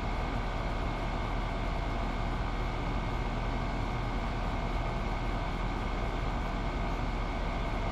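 Ford 6.7 Powerstroke V8 turbodiesel idling steadily between throttle snaps of an exhaust opacity test, the engine note even and unchanging.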